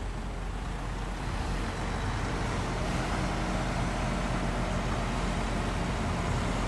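Bulldozer's diesel engine running under steady load, a little louder about two seconds in.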